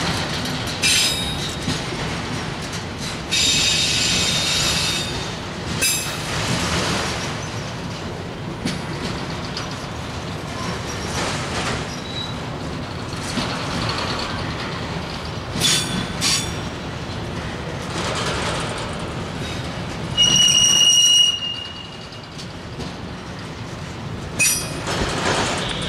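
Autorack freight cars rolling past, their steel wheels rumbling steadily on the rails. Several high-pitched wheel squeals cut in and out, the loudest and longest about twenty seconds in.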